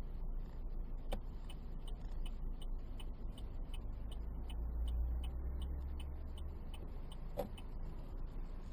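Car turn-signal relay ticking evenly at about three clicks a second, heard inside the cabin over a steady low engine and road rumble. Two louder clicks come about a second in and near the end.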